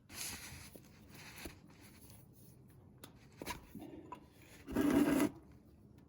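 Scraping and rubbing noises of a wrench and metal parts being handled while loosening a plug on a tractor, with a louder scrape about five seconds in.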